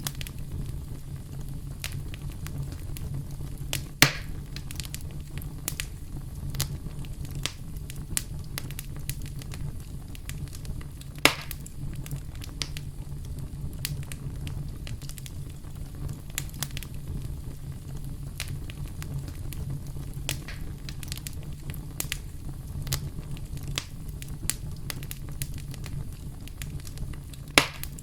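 Campfire crackling, with wood popping in frequent sharp snaps over a steady low rumble of flames; three louder pops stand out, about four seconds in, at eleven seconds and near the end.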